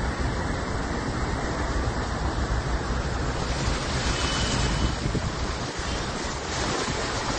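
Floodwater rushing in a torrent: a steady, even rushing noise.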